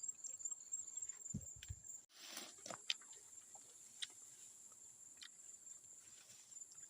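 Steady high-pitched chirring of crickets in the background, with scattered faint clicks and rustles and a brief rush of noise about two seconds in.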